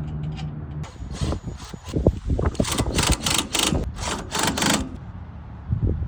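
Small metal parts clicking and knocking in a quick, irregular run, busiest in the middle seconds, as a small-engine carburetor and its linkage are handled and fitted. A low steady hum comes first, for about a second.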